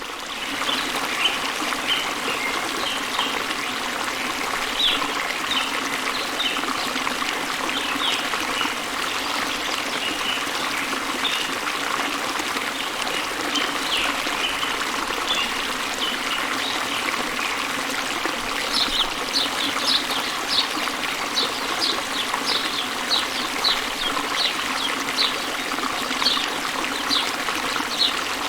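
Waterfall and river flowing steadily, with birds chirping over the water. From about two-thirds of the way in, a bird repeats a short high call about one and a half times a second.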